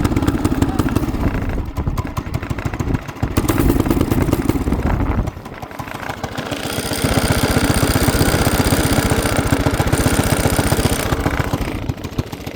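212cc single-cylinder engine running rough just after the choke is switched on: its revs sag twice, the second time nearly dying about five seconds in, then it picks back up and runs steadily on choke.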